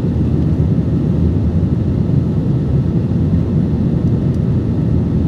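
Steady low drone of an airliner's engines and airflow heard from inside the passenger cabin, in the climb after takeoff.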